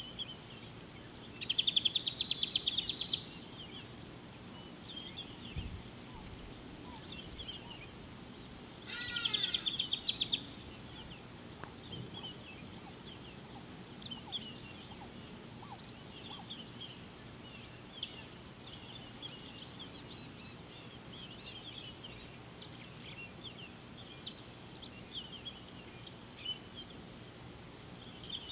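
Wild birds calling in the bush: two loud, rapid trills, one about a second and a half in and another about nine seconds in, with short scattered chirps throughout.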